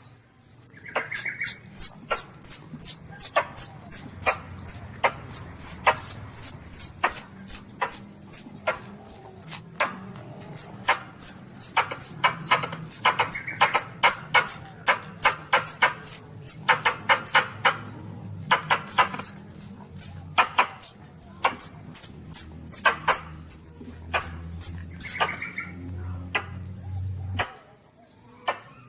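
Recorded distress squeaks of a young Asian palm civet (luwak), played as a hunting lure: a fast run of short, high-pitched squeaks, two to three a second, each dropping in pitch, over a low hum that stops near the end.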